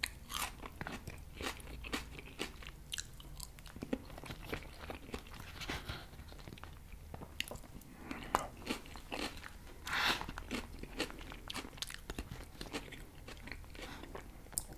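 Close-miked chewing of a forkful of crisp salad (lettuce and red cabbage), with many small crunches and wet mouth sounds; a louder crunch comes about ten seconds in.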